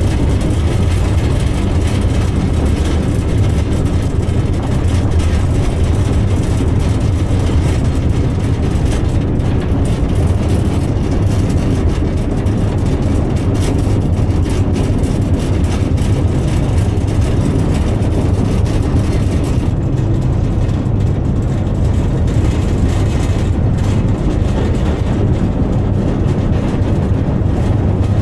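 Narrow-gauge train running steadily, a continuous low rumble of wheels on the rails and the locomotive, heard from on board an open, roofless carriage.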